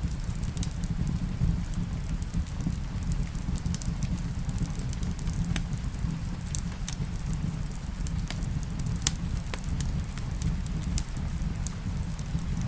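Wood fire in a fireplace crackling, with sharp irregular pops over a steady low rumble, mixed with the sound of rain.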